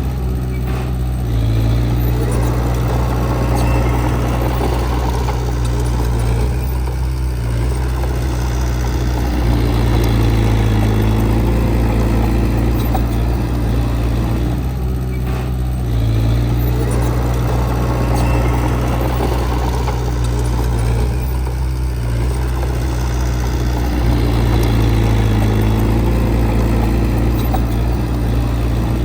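Diesel engine of heavy earthmoving equipment running steadily, its note rising and falling in a repeating cycle every several seconds as the load changes.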